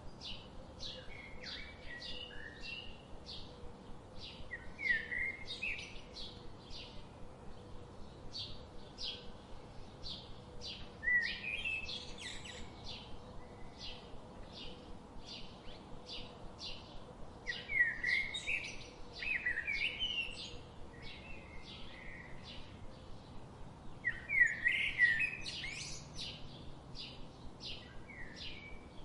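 Birds singing: a steady run of short, high chirps about two a second, with louder warbling phrases breaking in every six seconds or so.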